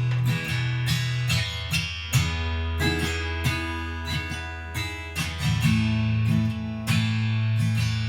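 Taylor 812ce acoustic guitar being played, chords strummed and picked with ringing notes and a moving bass line; its frets are heavily worn.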